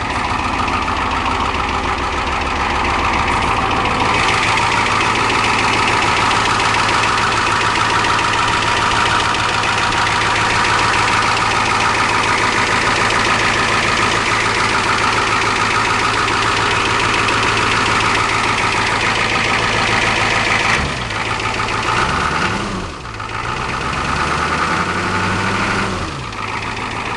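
Ford 6.9-litre V8 diesel idling with a steady diesel clatter. It is still cold, just started after sitting unplugged for six months.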